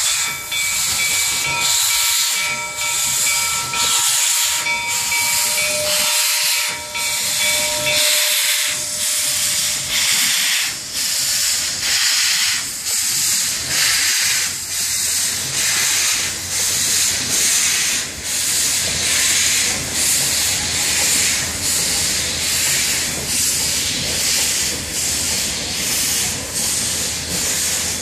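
Steam locomotive of the Black Hills Central's 1880 Train working under way: steam exhaust hissing in an even, repeating beat. A low rumble of the cars on the rails comes up from about halfway.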